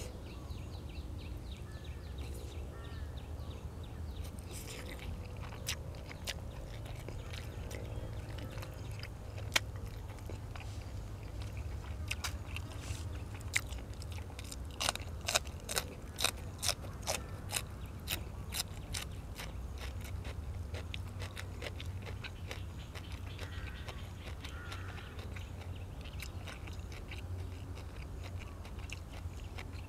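A person chewing and biting food close to the microphone: stewed pork ribs with fresh vegetables. Scattered crisp crunches come throughout, with a quick run of sharper crunches about halfway through, over a steady low hum.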